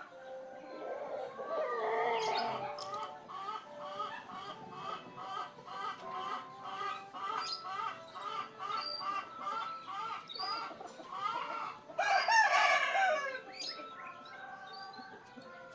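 Chickens clucking in a steady run of short calls, about three a second, with a louder drawn-out call, like a rooster crowing, near the start and again, loudest, near the end.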